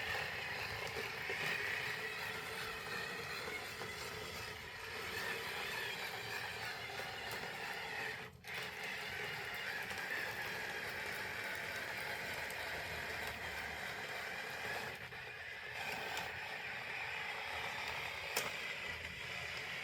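Electric drive of a scratch-built 1/6 scale RSO tracked tractor model running, its metal tracks and gearing clattering steadily. It stops for a moment about eight seconds in, then runs on.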